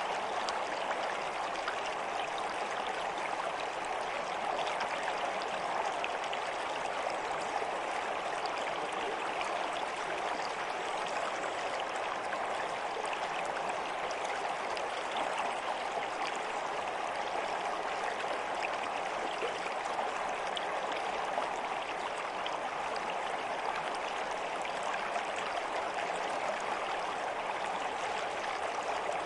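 Flowing water of a stream running steadily: a continuous even rush, flecked with many small splashes and trickles.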